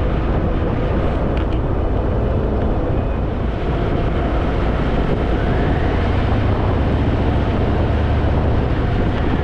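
Harley-Davidson Fat Boy's V-twin engine running steadily while riding, mixed with wind noise on the microphone.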